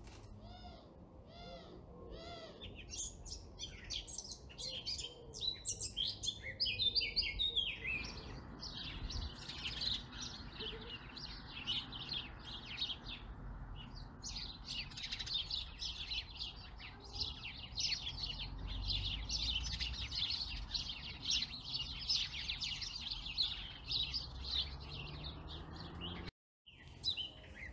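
Several songbirds singing and calling, a dense chorus of quick chirps and trills. The recording changes about eight seconds in and cuts out for a moment near the end.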